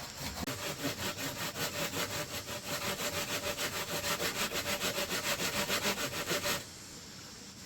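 Hand saw cutting bamboo in quick, even back-and-forth strokes, with a faint steady ringing tone running under them. The blade is dull and barely biting. The sawing stops about six and a half seconds in.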